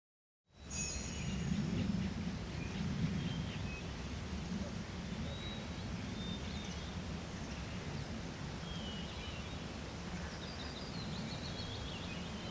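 Forest ambience that cuts in about half a second in: birds chirping and trilling here and there over a steady low rumble of background noise.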